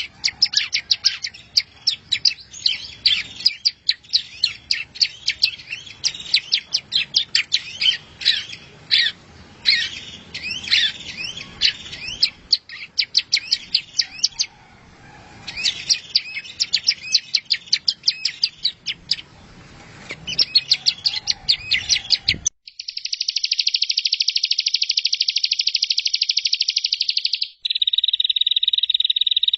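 Songbird masteran recording: a bird's rapid, varied chattering song of high chirps and whistles, with short breaks. About 22 seconds in it cuts off abruptly and a steady, dense buzzing trill takes over, narrowing to a lower, tighter pitch about five seconds later.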